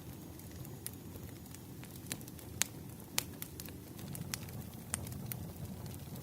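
Wood fire crackling: irregular sharp pops and snaps, roughly one every half second, over a low steady rush of burning logs.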